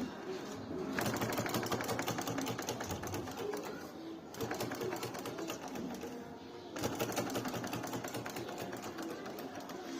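Sewing machine running in two bursts of about three seconds each, a fast even clatter of needle strokes, with a pause between them.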